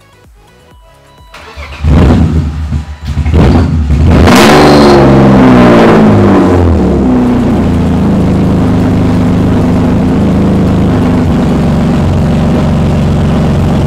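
BMW E36 328i's straight-six engine cranked by the starter for about two seconds, catching, revving up once and settling into a steady idle. It is a little loud through its new exhaust.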